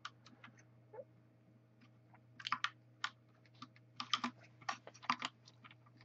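Faint, irregular plastic clicks and clacks from a mechanical keyboard's spacebar keycap, with Cherry MX Red linear switches, being pushed sideways and worked loose from its metal stabilizer bar. The clicks come in small clusters, most of them in the second half.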